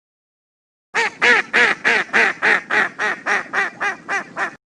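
A duck quacking: a quick run of about a dozen short quacks, getting quieter toward the end.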